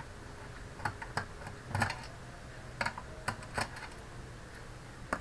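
Scattered small metallic clicks and taps, about half a dozen at uneven intervals, from a screwdriver working the screws that hold the hard disk inside an all-in-one PC.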